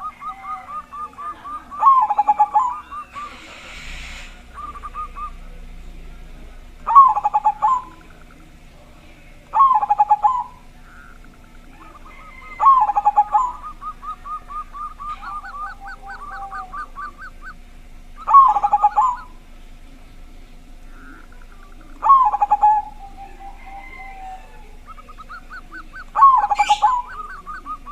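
Zebra dove (perkutut) singing its loud, staccato cooing phrase over and over, about every three to five seconds, with quieter rapid trilling notes between the phrases. A brief hiss comes about three seconds in.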